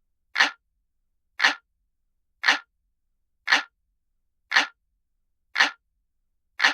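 Looped clock ticking sound effect: single sharp ticks about once a second, evenly spaced, with silence between, seven ticks in all.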